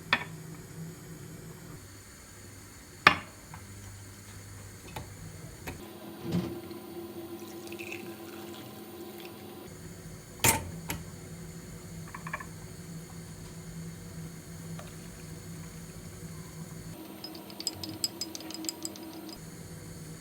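A few sharp knocks and clinks of objects being handled over a steady low hum. The loudest is about three seconds in and another comes about ten seconds in, with a quick run of small ticks near the end.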